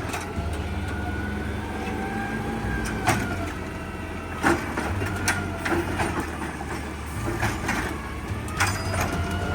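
CNG automated side-loader garbage truck running, with a whine that rises and falls as the hydraulic arm works. Several sharp bangs and knocks come as a full bin is lifted and dumped into the hopper.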